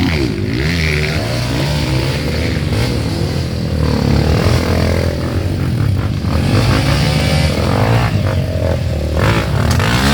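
Several dirt bike engines revving together, their pitch rising and falling over and over.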